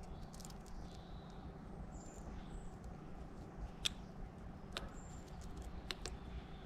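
Birds at a feeder: a few sharp pecking taps and short high chirps over a steady low hum.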